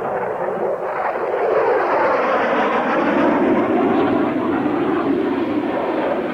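Aircraft flying past, growing louder to a peak a few seconds in and then easing off, with a falling pitch as it passes.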